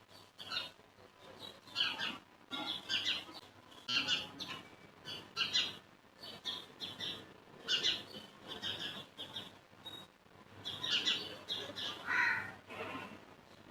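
Birds chirping and calling again and again in short bursts, with one longer falling call near the end.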